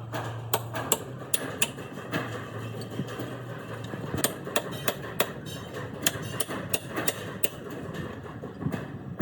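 Hammer tapping on metal parts, about two sharp knocks a second at an uneven pace, over a steady low hum.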